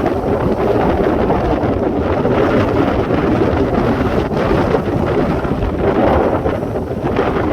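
Wind buffeting the microphone: a steady, loud rumbling roar.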